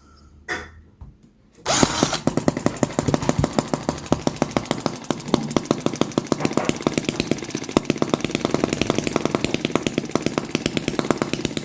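Microcosm M25 sideshaft model engine starting up about a second and a half in, then running with a rapid, even train of firing pulses and regular stronger beats. It is loud, on a test run after its tweaks.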